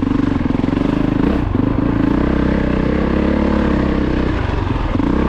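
2022 Honda CRF450RX's single-cylinder four-stroke engine running under throttle on a dirt bike. The revs dip briefly twice and pick back up.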